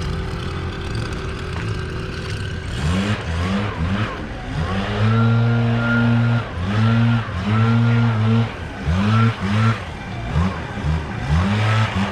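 An engine running steadily, then revved up and down over and over from about three seconds in, in a string of short and longer rises and falls in pitch.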